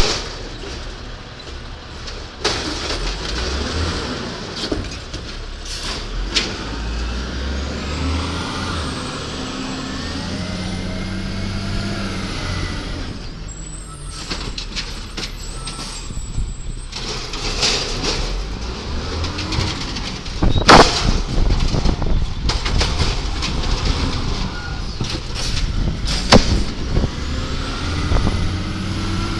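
Garbage truck's diesel engine running and revving, with a rising and falling whine and several sharp bangs, the loudest about two-thirds of the way through.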